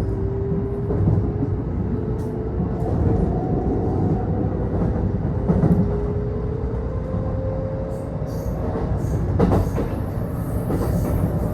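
Kintetsu electric train heard from inside the passenger car, running with a steady low rumble and a motor whine that rises slowly in pitch as it gathers speed. A few wheel knocks over the rail joints are heard.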